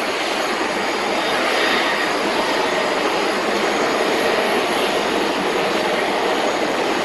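Boeing 767 freighter's twin jet engines giving a loud, steady rush of jet noise with no let-up.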